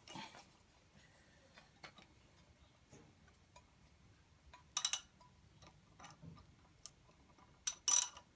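Light metallic clicks and taps from hand tools and parts on a Chrysler 3.5 V6 during timing belt fitting. A quick cluster of sharper clicks comes about five seconds in, and another comes near the end.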